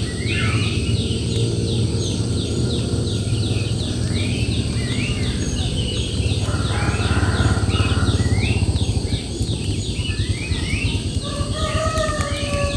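Birds singing outdoors: one repeats a short rising-and-falling phrase every second or two over a fast, even train of high chirps, about three a second. A steady low rumble runs beneath.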